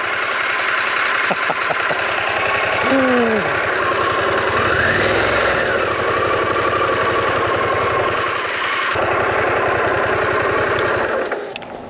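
Camper van engine running close by as the van pulls up and parks, then switching off about eleven seconds in.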